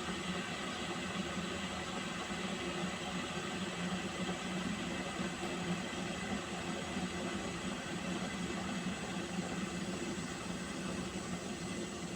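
Water heating on a stove, giving a steady rushing hiss of steam with a low hum under it.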